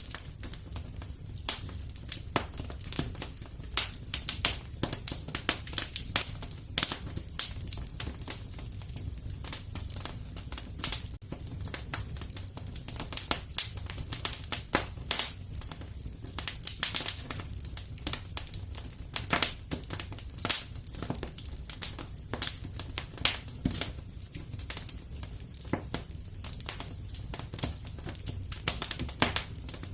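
Fireplace fire crackling: a steady stream of irregular sharp snaps and pops over a low, even rumble.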